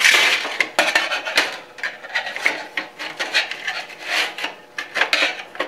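Sheet-metal dust cover on a surface grinder scraping and clinking against the machine and its shouldered screws as it is worked into place by hand, in a run of irregular scrapes and sharp clicks.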